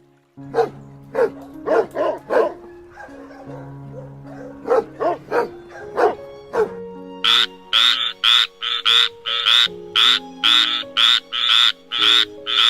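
Repeated short animal calls over background music with held low notes. From about seven seconds in, the calls come faster and higher-pitched, about three a second.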